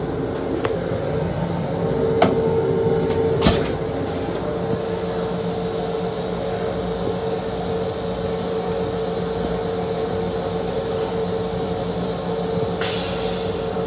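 Long Island Rail Road M7 electric train running, a steady hum and rumble with two sharp knocks a little over a second apart early on and a brief hiss near the end.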